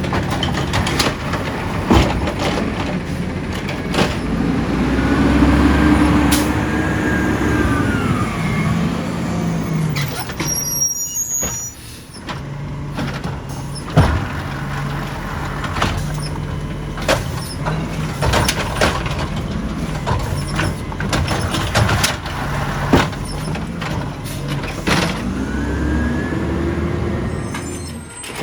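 Side-loader garbage truck at work: its diesel engine runs steadily and twice revs up and back down, with repeated sharp clanks and knocks.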